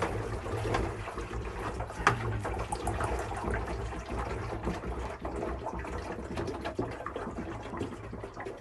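Water being poured from a plastic bottle into a humidifier's water tank, a steady pour that tapers off near the end.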